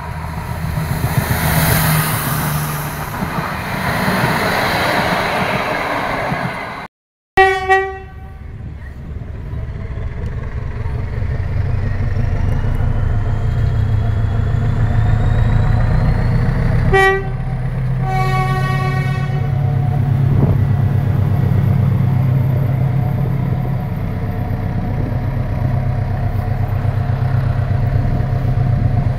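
A diesel multiple unit running past on the track, then a diesel locomotive sounding its horn: two short toots, another toot and one longer blast. Its engine is working hard as it pulls a rake of double-deck coaches away, giving a steady low drone.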